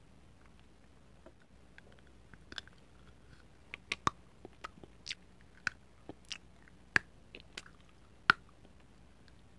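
Close-miked biting and chewing of a chocolate spoon: a string of sharp snaps and crunches that starts about two and a half seconds in, with the loudest snaps near the end.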